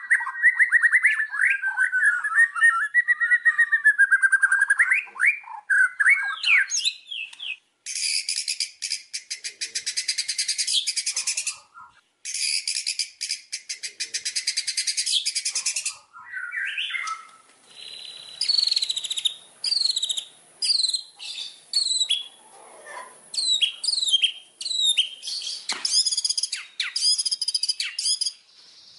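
White-rumped shama (murai batu) singing a long, varied song: sliding whistled phrases, then two long rapid trills of quickly repeated notes, followed by a series of short, repeated notes that slide downward.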